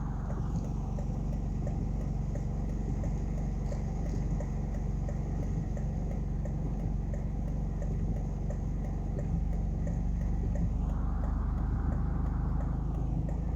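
A car's hazard-light flasher ticking steadily over the low hum of the idling engine, heard inside the cabin. Near the end a passing vehicle's noise swells and fades.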